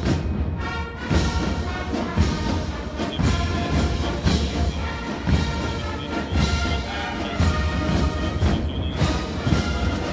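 Military brass band playing a march, with a drum stroke about once a second.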